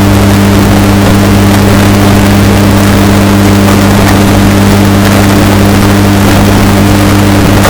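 Washing machine running with a steady low hum under a noisy wash, heavily bass-boosted and distorted to near full loudness.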